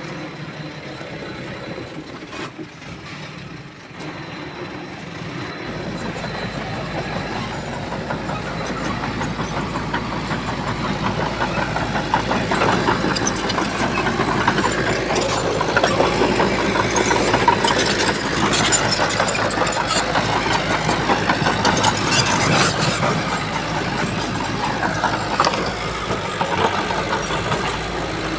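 Heavy diesel engine of earth-moving machinery running, growing louder a few seconds in and staying loud.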